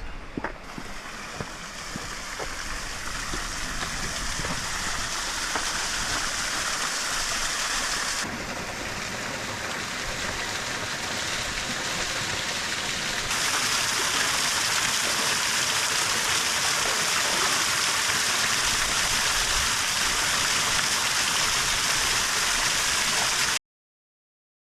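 Waterfall water rushing steadily, with the level shifting abruptly about 8 and 13 seconds in, then cutting off suddenly near the end.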